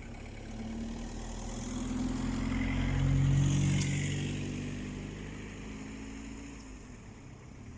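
A car driving past on the road: its engine and tyre noise grow louder to a peak about three seconds in, then fade away.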